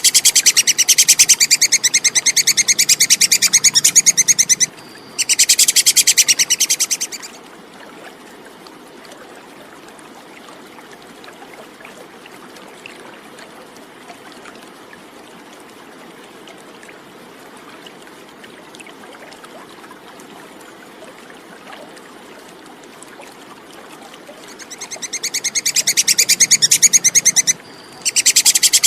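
Squirrel (tupai kekes) chattering: a very fast string of shrill, high chips in two bouts of several seconds. A long stretch of faint hiss follows, and the chattering swells back in near the end, broken by a short pause.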